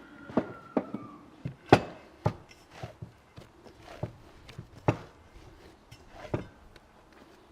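Irregular knocks and taps of objects being handled, about ten of them at uneven spacing, the loudest a little under two seconds in.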